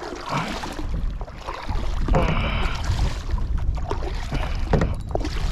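Wind rumbling on the microphone and water moving against a kayak, the rumble growing heavier about two seconds in. A man breathes hard and grunts briefly from the strain of holding a hooked fish.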